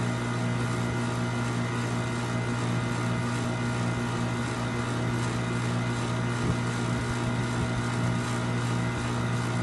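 A steady mechanical drone with a strong low hum, unchanging throughout, like a motor running continuously.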